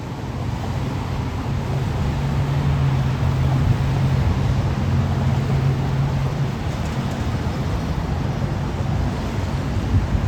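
Fire truck engine running as the truck backs up: a steady low drone that grows louder over the first few seconds.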